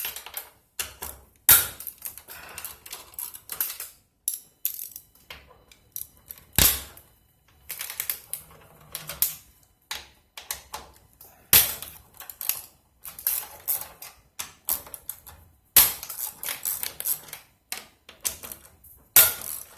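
Hand tools loosening the fasteners on Nissan Leaf battery modules: irregular short runs of clicks like a socket ratchet, mixed with metal clinks. About five sharper knocks stand out, at roughly 1.5, 6.5, 11.5, 16 and 19 seconds.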